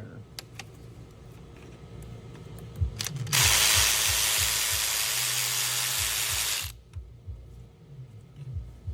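Compressed air hissing steadily from a shop air tool for about three and a half seconds, starting and stopping abruptly, with light knocks and clicks of handling before and after.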